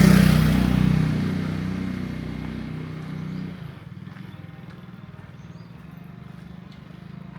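A motor vehicle's engine passing close by, loud at first and fading away over about three seconds, leaving a quieter steady engine hum.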